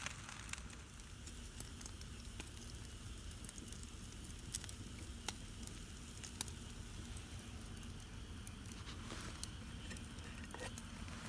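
Wood campfire crackling, with irregular sharp pops a few times a second over a low steady background.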